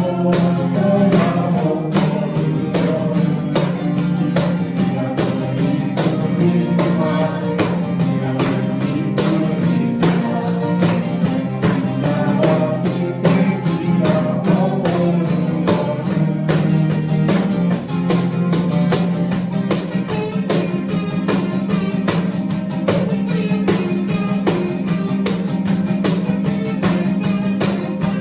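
Live band music: strummed guitar over a steady, evenly spaced percussive beat and a strong bass line.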